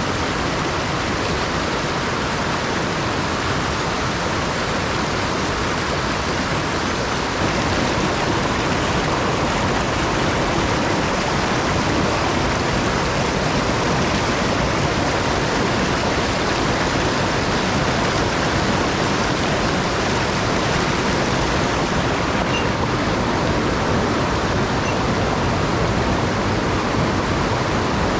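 Mountain stream rushing over rocks, a steady loud rush of water that gets a little louder about seven seconds in.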